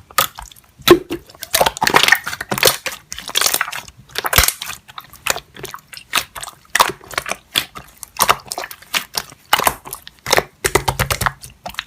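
Slime being squeezed and pressed by hand: a run of irregular short squishes and clicks, several a second.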